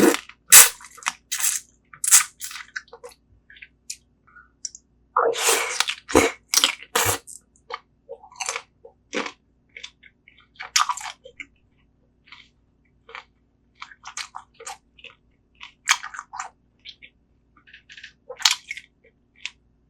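Close-miked chewing and crunching of spicy braised seafood: irregular wet bites and crunches, with a dense run of crunching about five to seven seconds in.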